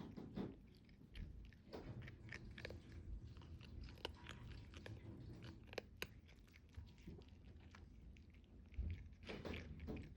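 Faint crunchy chewing: a cat eating a dry treat, with small irregular crunches and clicks.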